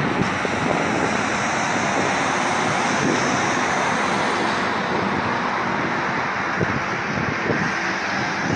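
Steady outdoor rushing noise, with a few faint knocks near the end.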